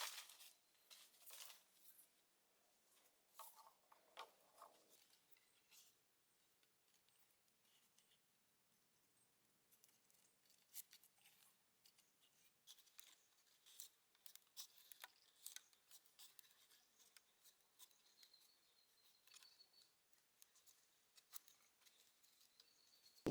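Near silence broken by faint, scattered clicks and scrapes, like small materials being handled.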